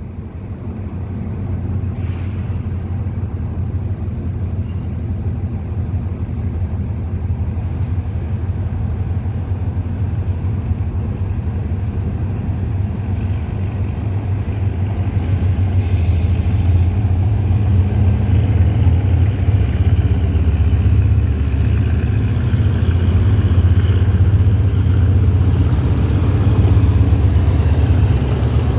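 Diesel train engine running with a steady low rumble that grows slowly louder as the train approaches.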